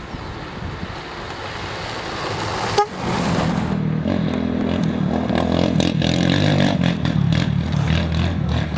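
Engine of an off-road rally machine coming closer, louder and louder. There is a sharp knock just under three seconds in, and from then on its pitched, wavering running sound is close and strong.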